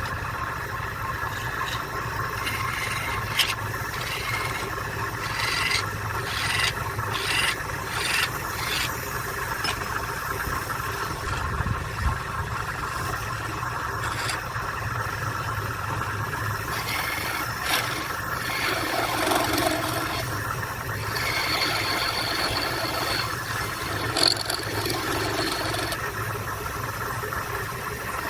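Wood lathe running with a steady hum while a tool scrapes against the spinning wood. A few seconds in there is a run of short, even rasping strokes, about one every half second.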